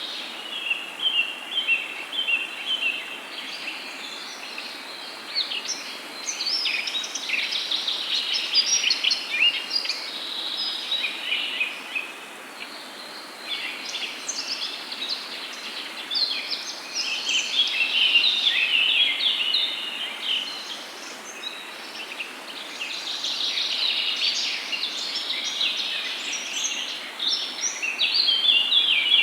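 Birds chirping and singing in repeated bursts of rapid, high-pitched notes a few seconds long, over a steady background hiss.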